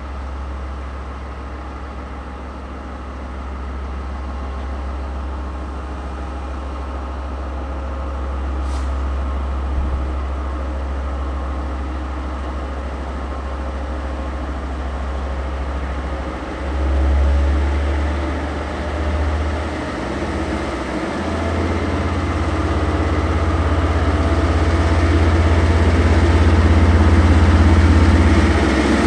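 Diesel locomotive running with a deep, steady engine note that shifts briefly partway through and grows louder toward the end as the train approaches.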